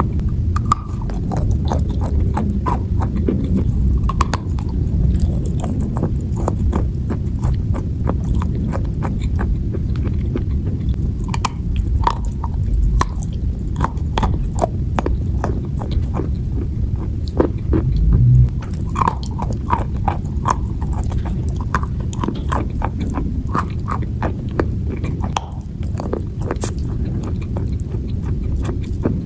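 Close-miked biting and chewing of dry crunchy clay: many sharp, irregular crunches and crackles. A steady low rumble runs underneath.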